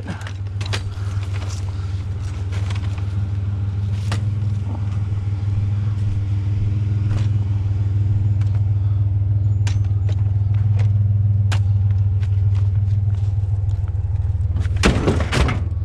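Vehicle engine idling with a steady low hum, with scattered light clicks and knocks of metal items being handled and a louder clatter near the end.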